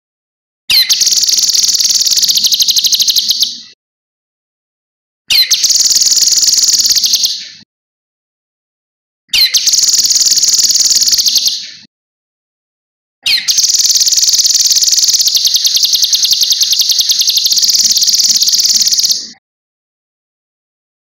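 Cucak kinoi songbird singing a fast, high, rattling trill in four bursts of a few seconds each, separated by silent gaps, the last burst about six seconds long.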